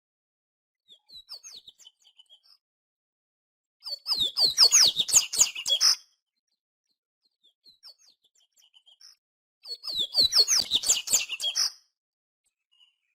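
Papa-capim (a Sporophila seedeater) singing: two loud, two-second phrases of rapid high chirps and slurred notes, one about four seconds in and another about ten seconds in, with soft scattered notes between them.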